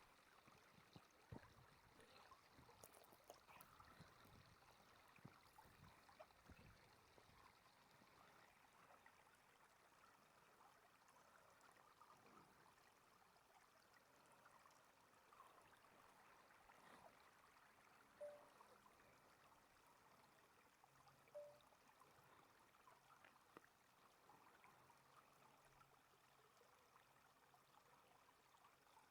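Near silence: faint outdoor ambience, with a few soft crackles in the first several seconds and two short, high peeps about three seconds apart past the middle.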